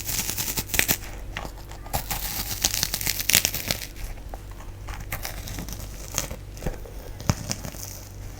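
Crisp crinkling and crackling close to the microphone, dense for the first four seconds or so, then thinning to scattered sharp clicks.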